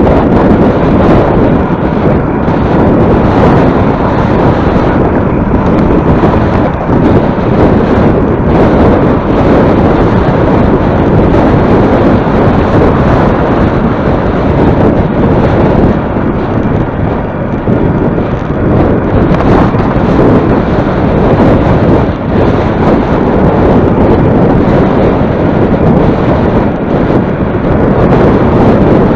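Heavy wind buffeting the microphone while riding into a headwind: a loud, continuous rumbling roar.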